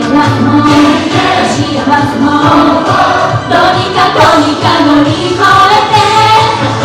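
Female J-pop idol group singing a song together over a loud pop backing track.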